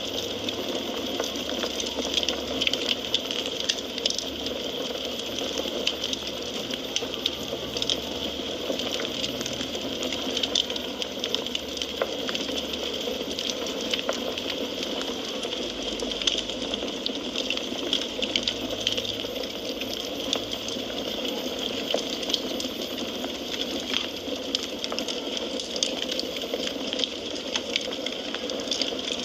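Wood fire crackling in a fireplace: a steady hiss dotted with many small, sharp pops and snaps.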